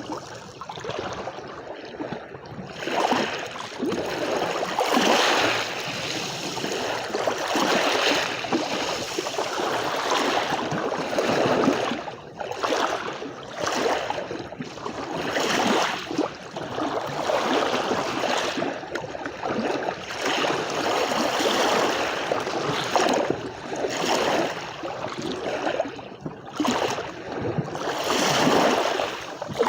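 Sea waves washing on a shore, a continuous hiss of surf that swells and ebbs every few seconds.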